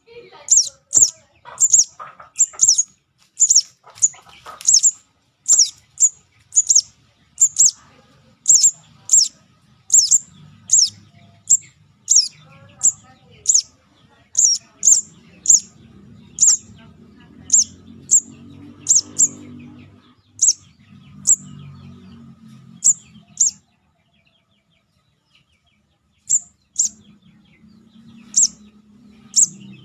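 Begging call of a young sogon (crimson sunbird), used as a bird lure: short, sharp, high chirps, each sliding down in pitch, repeated about twice a second and growing sparser toward the end, with a brief pause near the end. A faint low rumble runs beneath the middle part.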